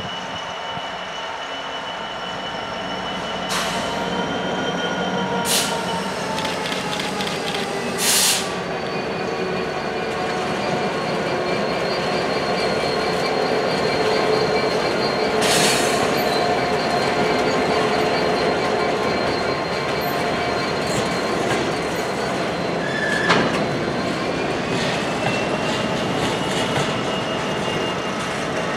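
A loaded coal train's wagons rolling past, their wheels squealing in several drawn-out high tones that slowly slide in pitch. Sharp metallic clanks ring out about five times over the steady rumble.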